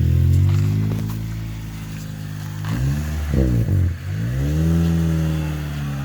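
Toyota engine revving through a custom-built full cat-back exhaust: a held rev that slowly drops off, two quick throttle blips about three seconds in, then another longer rev that rises and eases back down.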